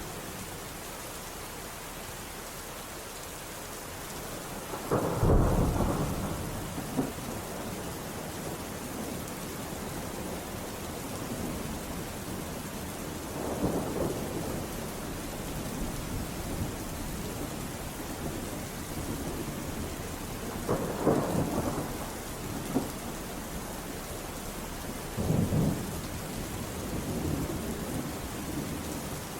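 Steady rain with thunder rumbling four times. The loudest, deepest roll comes about five seconds in, and softer ones follow near the middle and toward the end.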